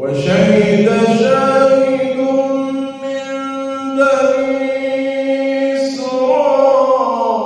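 A man chanting the Quran in melodic tajweed style, holding long sustained notes that shift in pitch a few times.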